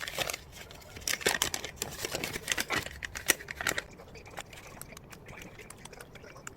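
Rapid small clicks and rustling of objects being handled, densest between about one and four seconds in, then thinning to a few faint clicks.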